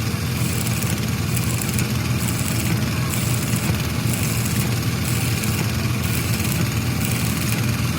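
A large engine idling steadily with an even, low hum.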